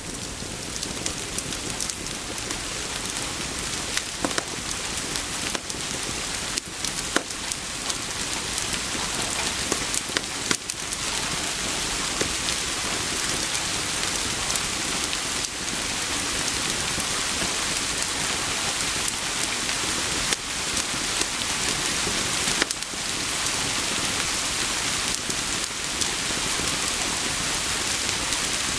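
Steady rain pouring on a surface, swelling gradually over the first ten seconds or so, with scattered sharp pops and snaps from a crackling wood fire.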